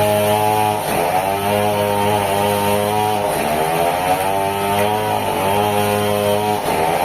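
Sawmill machinery running steadily, its motor's pitch sagging briefly and recovering about four times.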